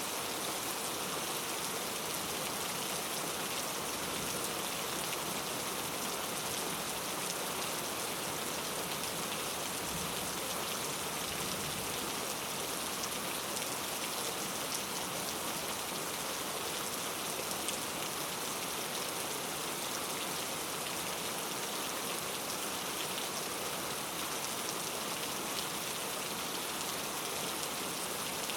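Steady rain falling through a rainforest, a dense even hiss of drops with fine individual drop ticks scattered through it.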